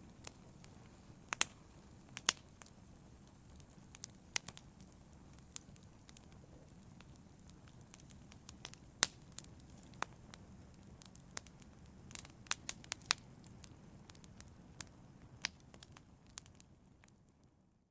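Wood fire burning in a fireplace: logs crackling with irregular sharp pops over a faint low rush of the flames. It fades out near the end.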